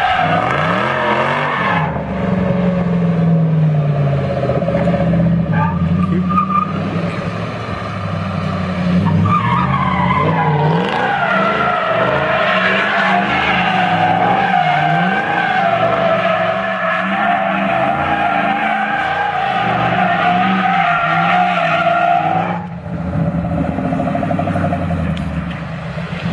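A 1968 fastback car doing a burnout: the engine is revving hard while the rear tires squeal in a loud, wavering screech. The squeal comes briefly at the start, then in a long spell from about nine seconds in that cuts off about 22 seconds in, with the engine still running after it.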